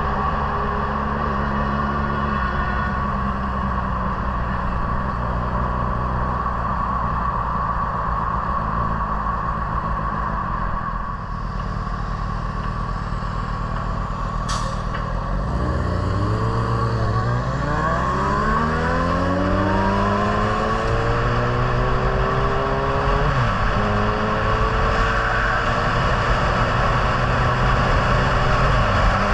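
Motor vehicle engine and road noise. About halfway through, the engine note rises over several seconds as the vehicle accelerates, then holds steady. There is a single sharp click shortly before the acceleration.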